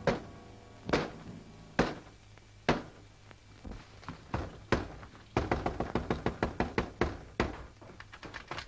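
A series of sharp knocks: four single strikes about a second apart, then a quick, uneven run of lighter taps.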